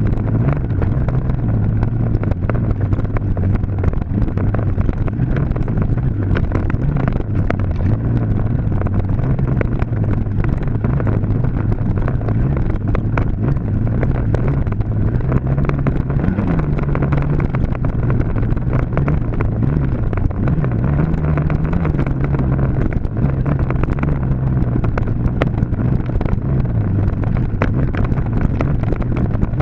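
Dirt bike engine running continuously at steady throttle, its pitch wavering up and down slightly, with wind buffeting and rattles over it.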